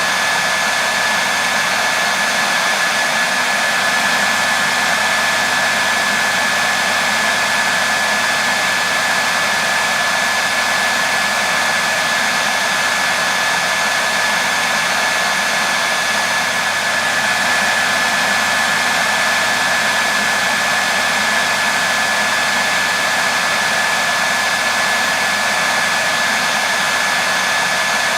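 Hair dryer running continuously: a steady, even rush of air with a constant high whine from its motor.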